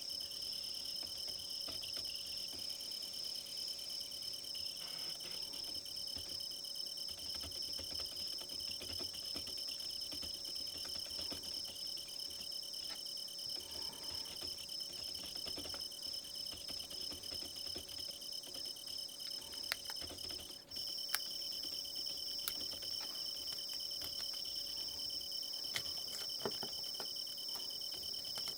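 Crickets chirping in a steady, pulsing high trill, as a nature-sound ambience. The trill breaks off briefly about two-thirds of the way through, and a few faint clicks sound over it.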